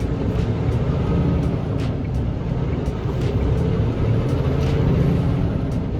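Semi truck's engine running steadily while driving, a continuous low rumble, with a few scattered clicks and rattles.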